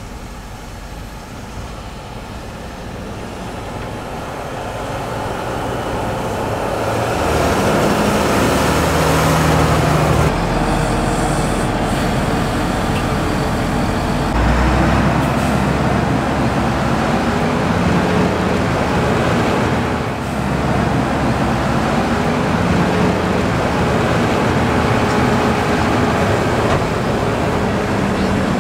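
Large farm tractor's diesel engine running, growing louder over the first several seconds as it comes closer, then staying loud with the engine note shifting several times.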